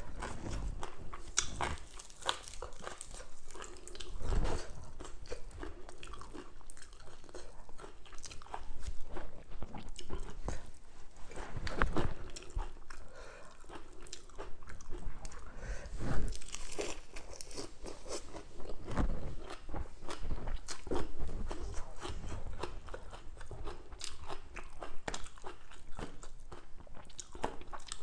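A person chewing and crunching mouthfuls of raw lettuce and green papaya salad, in close, irregular wet crisp crunches, a few of them louder.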